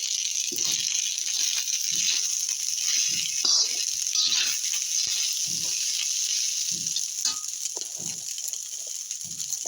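Turmeric-coloured fried rice with vegetables sizzling in a pan, a steady hiss, while it is stirred, with a soft low thud about once a second.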